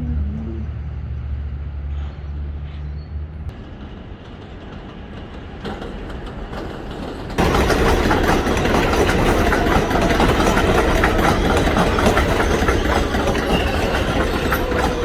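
Elevated 7 subway train at the station: a steady low hum at first, then a sudden loud rush of train noise about seven seconds in that keeps on, with a thin wheel squeal near the end.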